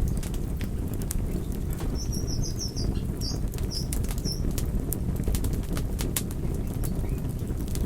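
Wood fire crackling: irregular sharp pops and snaps over a steady low rumble of burning. A small bird chirps a few times about two to four seconds in.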